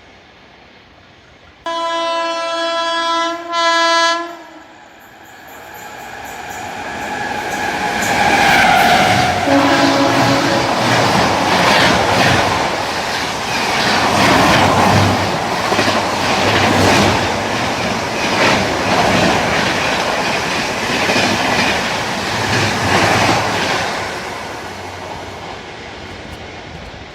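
An Indian Railways express train sounds its horn in a long blast with a short, louder second note. It then rushes past at speed with rapid clickety-clack of wheels over rail joints, fading away near the end.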